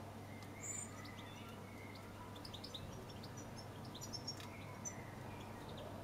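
Garden birds giving short, high chirps and calls scattered through, the loudest about a second in and a cluster around four to five seconds in, over a faint steady low hum.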